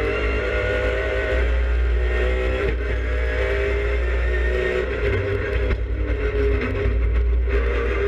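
Race car engine heard from inside its stripped, roll-caged cabin, running hard under way, its note dropping and picking up again several times, over a deep rumble of road and wind noise.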